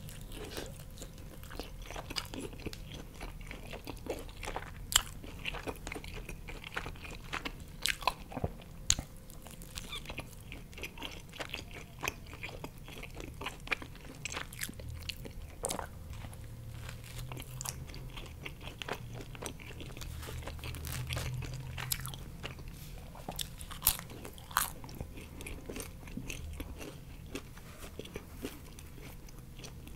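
Close-miked biting and chewing of pizza: irregular, crisp crunches of the crust between quieter chewing.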